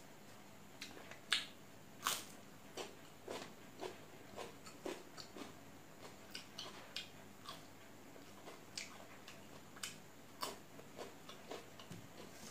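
Close-up eating sounds: irregular crisp clicks and crunches of chewing and mouth smacks as rice and shredded raw-vegetable salad are eaten by hand, the two loudest about a second and two seconds in.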